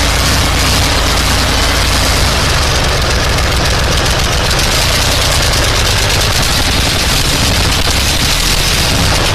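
Soviet Zvezda M50 high-speed diesel engine running loud and steady, with a dense, fast firing rhythm.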